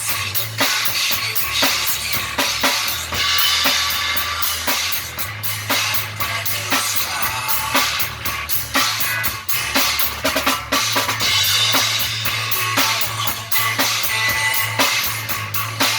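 Rock and roll band playing an instrumental passage: a drum kit with bass drum and snare keeps a steady, dense beat over a bass line.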